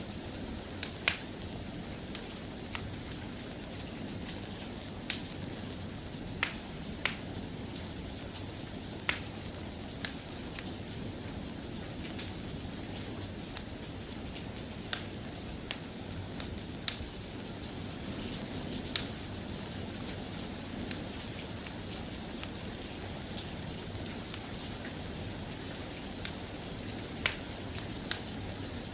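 Steady soft rain, with scattered sharp pops and ticks every second or two.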